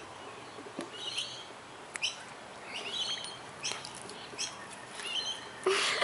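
Small birds chirping in short, high calls about once a second, with a few faint clicks. Near the end comes a short, louder rush of noise.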